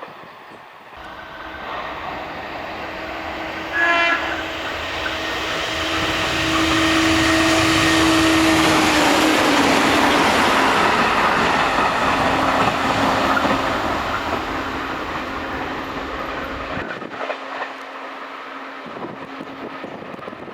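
JR Kyushu 811 series electric train passing at high speed. A short horn blast about four seconds in, then the running noise swells to a peak with a steady whine that drops in pitch as the train goes by, and it fades away.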